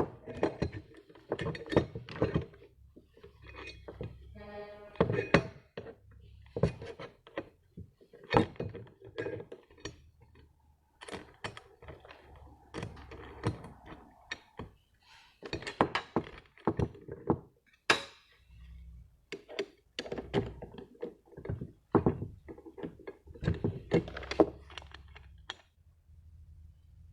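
Irregular knocks and clunks of hard objects being handled and set down, with a quick rattle of clicks about four and a half seconds in.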